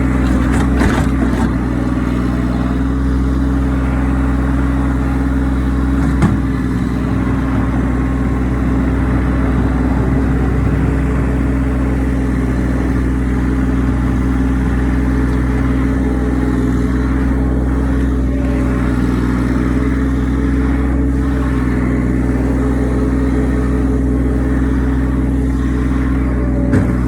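Massey Ferguson tractor's diesel engine running steadily at a constant speed, with a short knock about six seconds in and another near the end.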